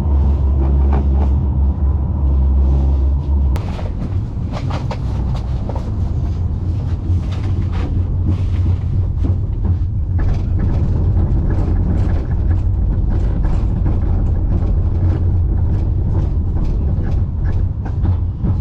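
Tram running, heard from inside the car: a deep steady rumble, with a low motor hum that drops away about three and a half seconds in. After that come many small knocks and rattles from the wheels on the track.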